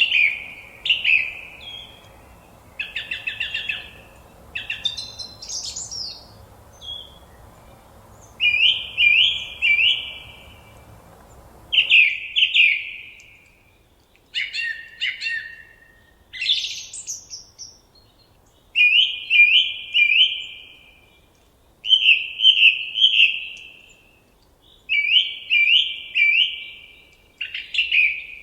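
Birdsong: short phrases of two or three quick chirps, repeated every couple of seconds, with a few higher, sharper notes in between. A faint background noise under the song cuts off abruptly about twelve seconds in.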